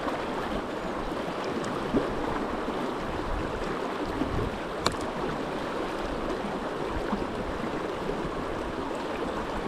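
Swift river current rushing steadily around the wading anglers, with two brief clicks about two and five seconds in.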